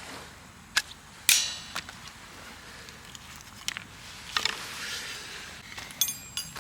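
Scattered sharp clicks and knocks, the loudest a little over a second in, followed near the end by a brief ringing clink.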